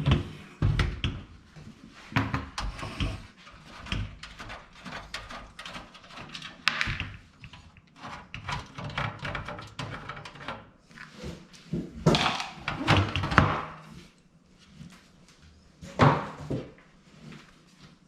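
Hands working inside a computer case: irregular clicks, knocks and rustles of cables and parts being handled, with a few louder bursts of knocking and scraping in the second half.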